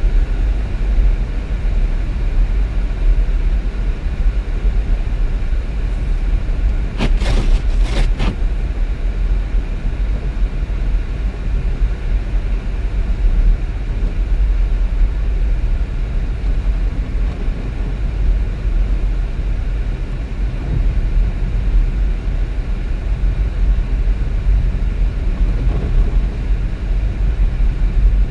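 Steady low rumble of road and engine noise inside a moving vehicle, with a brief cluster of sharp clicks about a quarter of the way in.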